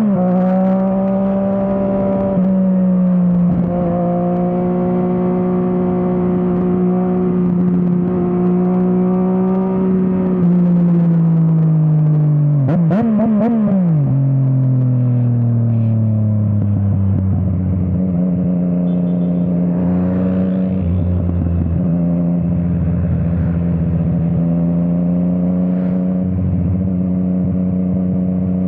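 Yamaha MT-09's inline-three engine through an Akrapovič exhaust, heard from the rider's seat. It holds steady revs, drops in pitch about ten seconds in with a brief wavering change of revs around thirteen seconds, then settles into steady, lower-revving running.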